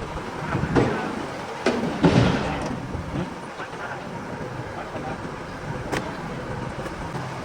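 A few sharp knocks, as of metal being struck, about four over several seconds with the loudest near two seconds in, over a steady background noise.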